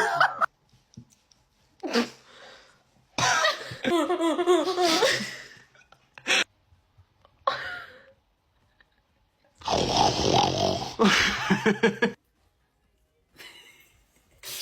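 Exaggerated, silly vocal noises made by a person, in several separate bursts: a short one about 2 seconds in, a longer wavering one around 3 to 5 seconds, a quick sharp one near 6 seconds, and a long breathy one near 10 seconds that breaks into choppy laughter.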